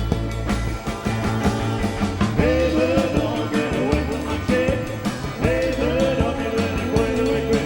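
A band playing rock and roll, with held pitched notes over a steady drum beat.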